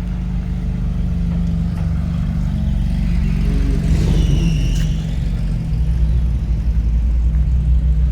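A car engine running close by with a steady low rumble that grows heavier about six seconds in. A brief high-pitched dipping tone sounds about four seconds in.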